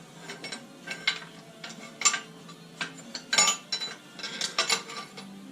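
Metal parts and hand tools clinking and knocking while hydraulic lines and fittings are worked loose from a forklift's transmission. It is an irregular string of sharp clinks, the loudest about two seconds and three and a half seconds in.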